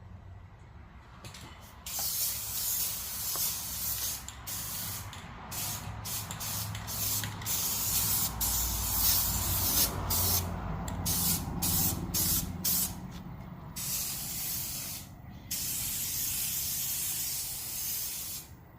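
Aerosol can of spray adhesive spraying in a series of short hissing bursts, then one longer spray of about three seconds near the end.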